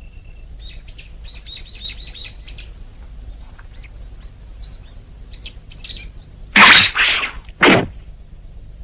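Cartoon ambience of small birds chirping faintly in quick high twitters. Two loud breathy bursts come near the end.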